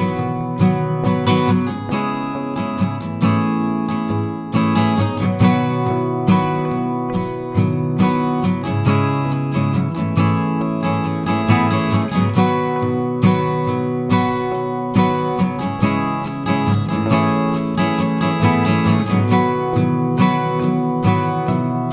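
Background music: strummed acoustic guitar, cutting off suddenly at the end.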